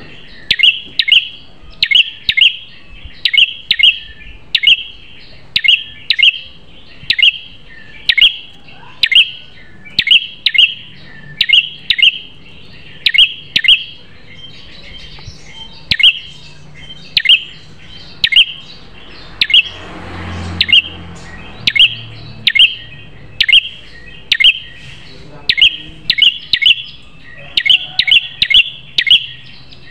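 Prinia (the 'prenjak kepala merah' of Indonesian bird keepers) calling: sharp, loud chirps repeated in pairs and short quick runs, about one to two a second. A brief rushing noise comes about two-thirds of the way through.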